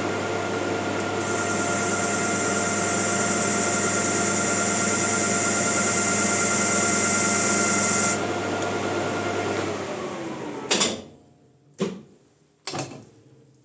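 Maximat lathe running with a bicycle disc brake mounted on it. From about a second in until about eight seconds a loud high hiss rides over the motor as the brake pads rub the disc. Near the end the lathe winds down and stops, followed by three sharp knocks.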